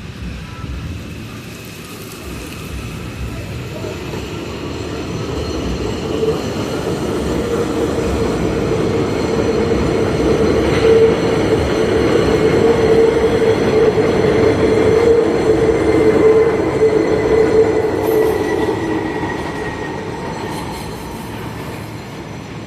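New York City Subway train running on the elevated White Plains Road line structure, growing louder to a peak about halfway through and then fading as it passes. It has a steady tone running through its noise, and a faint whine that slowly falls in pitch near the end.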